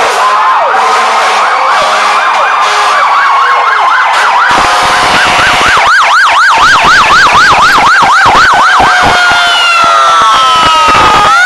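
Several fire truck sirens sounding at once, loud: a fast yelp sweeping up and down about four times a second over slower wailing tones that slide down in pitch near the end.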